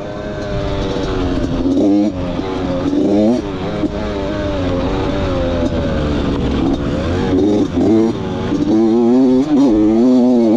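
Dirt bike engine being ridden, its pitch climbing under throttle and dropping back several times as the rider shifts and rolls off.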